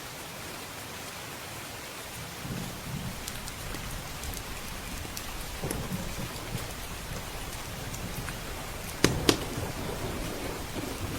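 Steady rain with a low rumble of thunder building from about two seconds in, and the small crackles of a wood fire scattered throughout. Two sharp pops, the loudest sounds, come about nine seconds in.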